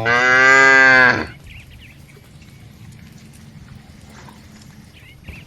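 A cow moos once, a loud, clear call lasting about a second and a half at the start, then stops; only faint background follows.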